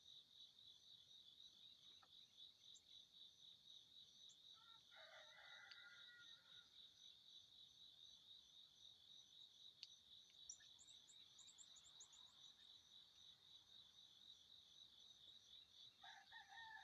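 Faint rooster crowing twice, about four seconds in and again near the end, over a steady pulsing cricket chorus. A small bird gives a short run of high chirps around the middle.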